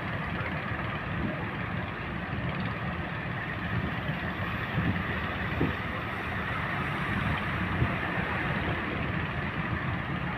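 Large ocean waves breaking: a steady rushing noise of heavy surf with a deep rumble.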